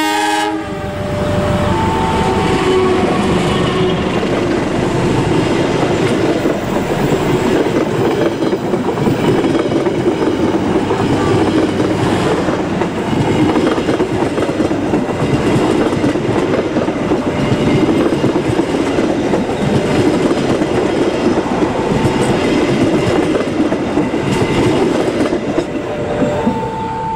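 Diesel-hauled passenger train passing close by: locomotive followed by a long rake of coaches, their wheels clattering steadily over the rails, easing slightly near the end as the last coaches go by.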